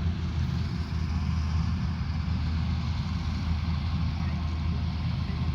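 Rice combine harvester running steadily at working speed, a constant low engine drone with a hiss of machinery over it.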